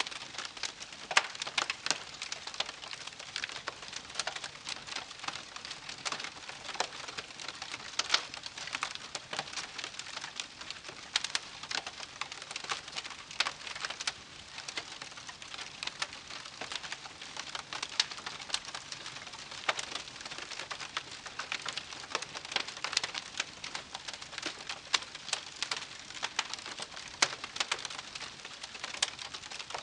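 Wood campfire crackling: many sharp, irregular pops and snaps over a soft steady hiss of burning.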